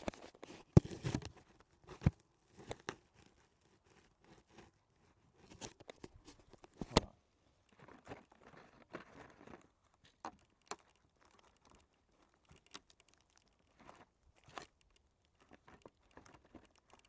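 Food packaging being handled: short bouts of crinkling and rustling with scattered sharp clicks and knocks, the sharpest about two and seven seconds in.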